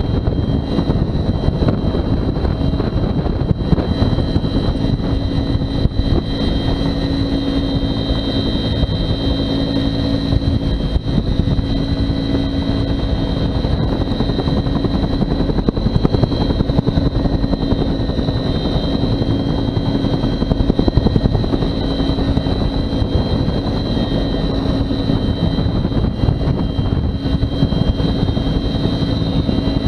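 Bell 210 (UH-1) helicopter running steadily: rapid rotor chop with a steady high turbine whine above it.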